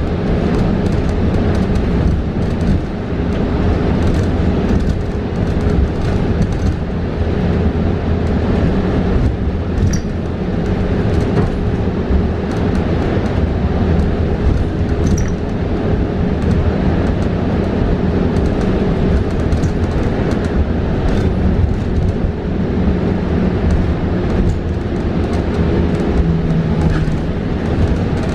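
Cabin noise of a New Flyer XE40 battery-electric bus in motion: steady road and tyre rumble with a steady electric hum, and a low tone that steps up in pitch near the end.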